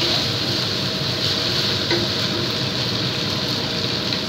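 Chicken and onions frying in curry paste in a wok, a steady sizzle, stirred with a wooden spatula early on.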